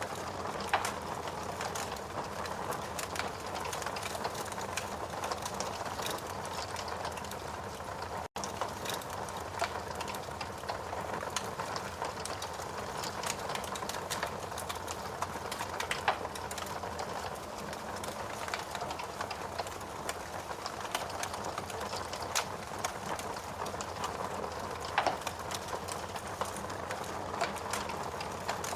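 Steady rain with a wood fire crackling: a constant hiss scattered with small sharp pops. Louder pops come about a second in, about halfway through and near the end, and the sound cuts out for a split second about eight seconds in.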